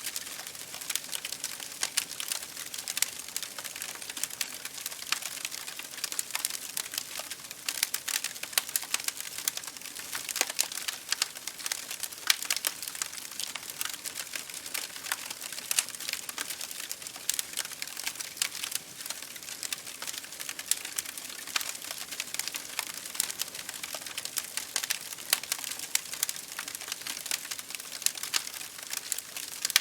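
Wood fire crackling in a fireplace, with many sharp irregular pops and snaps over a steady hiss of rain against a window pane.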